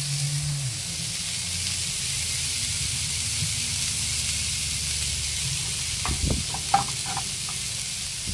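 Diced onions and sliced mushrooms sizzling steadily in oil on a hot Blackstone flat-top griddle. A few light knocks come about six to seven seconds in.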